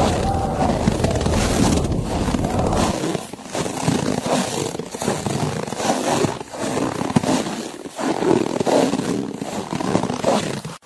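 Blizzard wind in a snowy forest, a steady noise that swells and drops every second or two.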